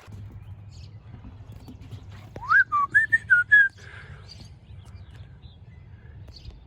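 A short whistled phrase, a rising swoop followed by about five quick notes, over the steady low hum of a small boat's outboard motor running.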